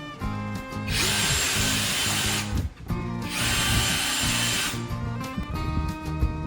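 A power tool runs in two bursts of about a second and a half each, with a short stop between, a steady high whine riding on the noise, over background music.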